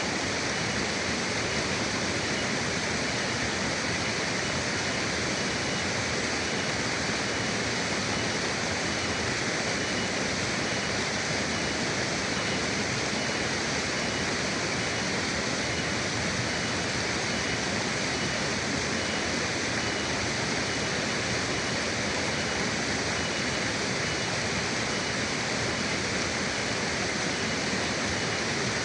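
Forest river flowing: a steady, even rush of water with no breaks or changes.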